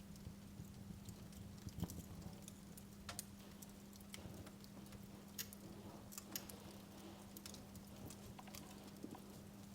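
Wood fire crackling in a fireplace: quiet, irregular sharp pops and snaps over a low steady hum.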